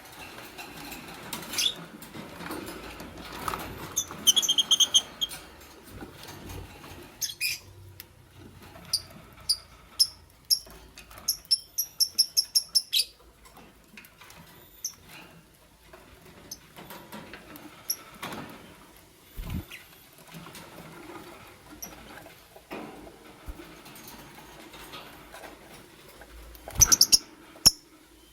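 Fischer's lovebird chirping in short, high-pitched calls, with a quick run of chirps about twelve seconds in and a brief loud burst near the end, over light scratching and rustling.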